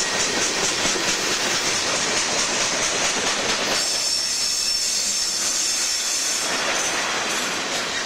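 Freight cars rolling past close by: steady rumble and clatter of steel wheels over rail joints, with a thin high wheel squeal coming in about four seconds in.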